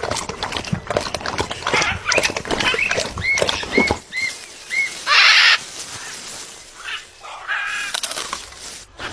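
A macaw making irregular clicking sounds for the first few seconds, then four short chirps that rise and fall in pitch. A loud, harsh squawk comes about five seconds in, and softer calls follow near the end.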